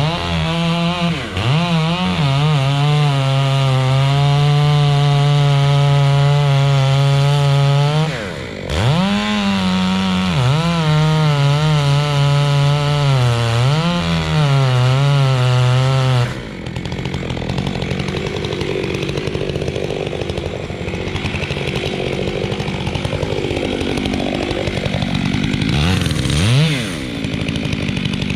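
Stihl 661C chainsaw running at high revs and cutting into a large pine trunk, its note dipping and climbing back twice. About two-thirds through, the steady high note breaks off and a rougher, less even running sound carries on.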